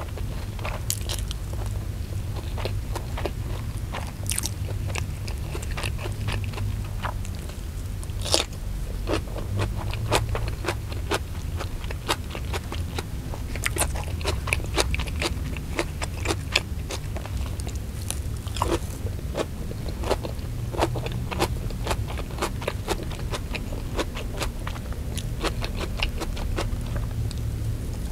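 Close-up chewing and biting of fried chicken, rice and raw vegetables: wet mouth sounds with irregular crunchy clicks, over a steady low hum.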